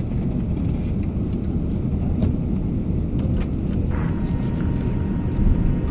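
Airbus A350 cabin noise after landing: a steady low rumble of the engines and airframe, with scattered light clicks and rattles. A faint steady hum comes in near the end.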